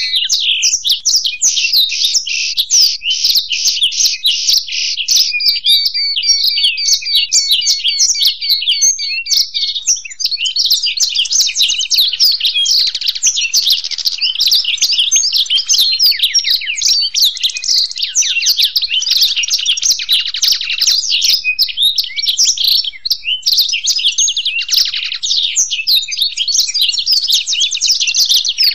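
Black-throated canary and European goldfinch singing together without pause: fast trills and twittering phrases overlapping continuously.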